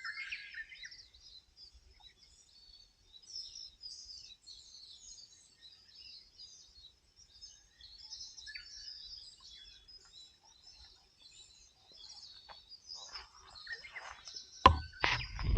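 Wild songbirds chirping and twittering continuously in quick, high calls. Near the end a much louder sound cuts in: music starting.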